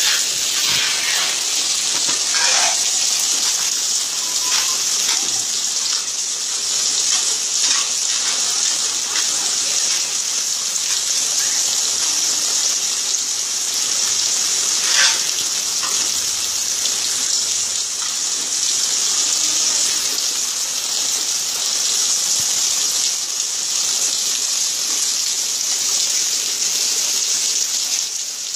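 Heavy summer rain pouring down in a steady hiss, with a few louder drips and splashes, the loudest about halfway through.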